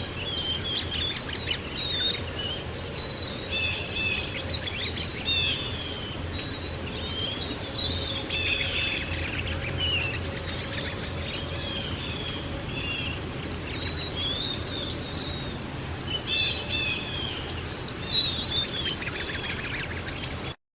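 Several small songbirds chirping and trilling continuously over a steady low background noise; the sound cuts off suddenly near the end.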